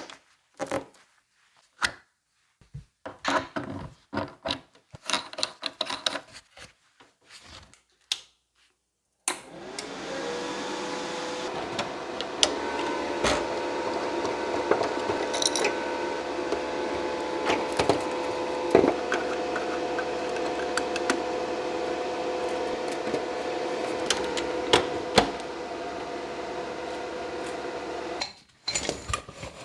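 Irregular knocks and clicks of handling, then an electric power tool starts about nine seconds in. It spins up and runs steadily with a whine and knocks over it, its pitch shifting about halfway, and stops near the end.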